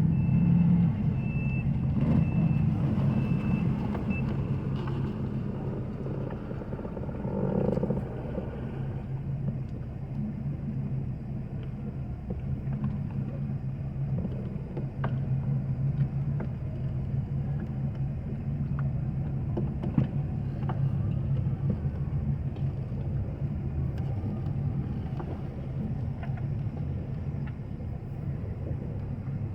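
A boat engine idling steadily, a low drone. A few short high beeps sound in the first few seconds.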